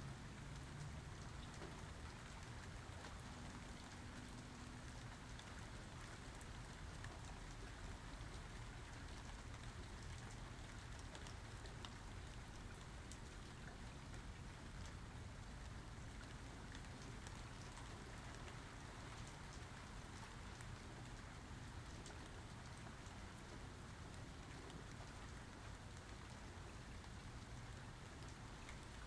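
Steady rain falling, with many faint individual drop hits scattered through the even hiss.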